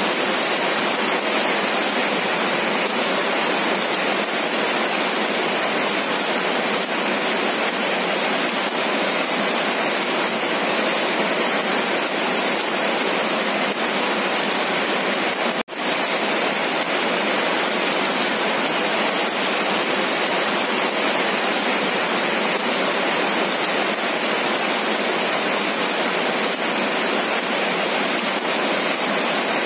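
Steady rain falling on wet pavement and plant leaves, a dense, even hiss that cuts out for an instant about halfway through.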